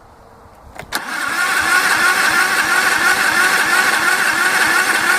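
A Honda lawn mower's engine being cranked by its electric starter in the cold, starting with a click about a second in. A steady starter whine runs over a rhythmic chugging as it turns over without catching.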